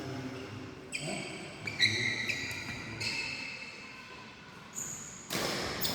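Shoes squeaking on an indoor badminton court floor in a run of short high-pitched squeals, with one sharp hit about two seconds in. A louder burst of noise starts near the end.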